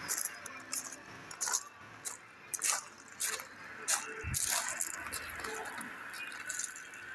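Irregular sharp clicks and light rattles, about a dozen spread over several seconds, with a dull thump about four seconds in.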